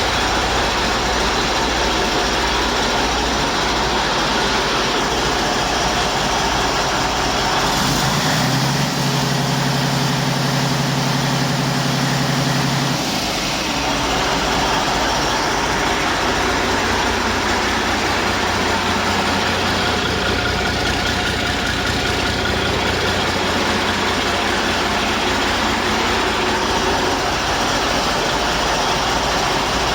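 Detroit Diesel DD15 inline-six diesel engine idling steadily on a test run. An extra steady hum joins for about four seconds, starting roughly eight seconds in.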